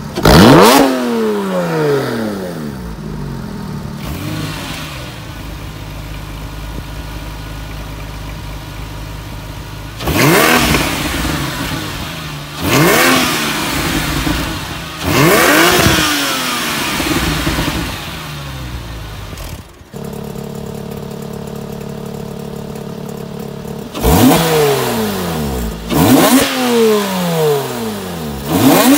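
Porsche 911 (997.1) flat-six engines idling and revved in sharp blips while parked, each blip rising and dropping quickly back to idle. First comes the black Carrera on its stock OEM exhaust. After a sudden cut, the silver Carrera S on a Soul Performance valved sports exhaust idles and is blipped three times in quick succession near the end.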